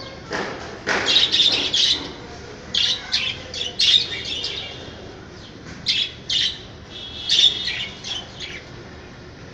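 Budgerigars chirping and chattering in quick bursts of short, high chirps, falling quieter near the end.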